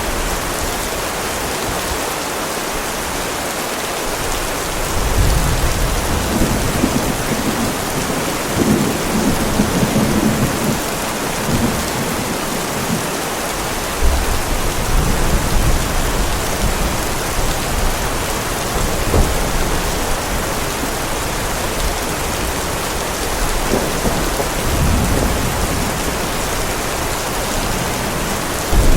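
Heavy rain falling in a steady hiss, with rolling thunder rumbling in low several times: about five seconds in, again around fourteen seconds, and once more near the end.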